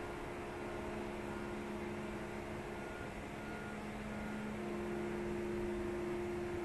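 Boat's inboard engine running steadily: a low hum with a couple of steady tones over rumble, growing a little louder about four and a half seconds in.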